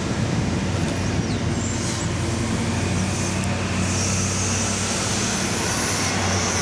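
Train at the station, a steady loud rumble with a low hum underneath.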